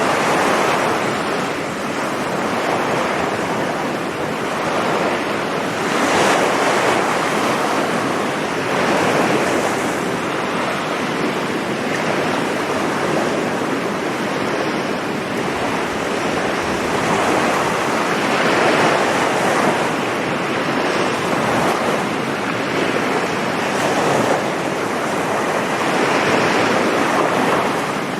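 Ocean surf breaking and washing up a sand beach, swelling every few seconds, with some wind on the microphone.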